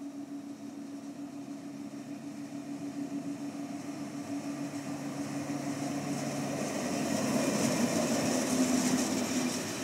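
Railway noise: a steady low hum, then the rumble and hiss of a train growing louder over the last few seconds as it draws near.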